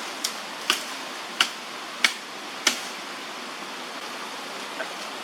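Five sharp knocks in the first three seconds, spaced roughly two-thirds of a second apart, over a steady rushing noise.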